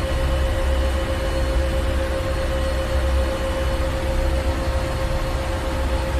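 Ship's engine room: heavy machinery running steadily, a deep rumble with a constant hum and a wash of noise, unchanging throughout.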